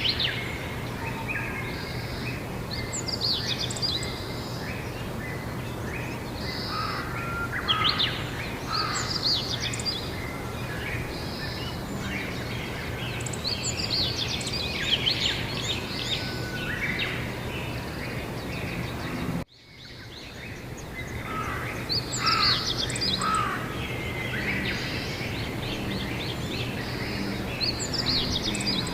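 Outdoor spring birdsong: several birds singing and calling in overlapping phrases over a steady low hum. About two-thirds of the way through the sound cuts out abruptly and fades back in.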